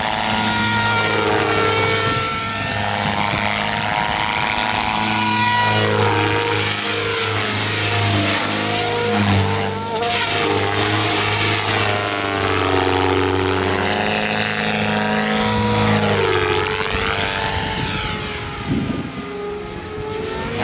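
HD Cell 500 electric RC helicopter in flight: the whine of the motor and rotors rises and falls in pitch as the headspeed and load change.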